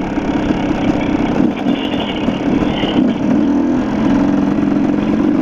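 Dirt bike engine running while riding a trail, its pitch wavering up and down with the throttle.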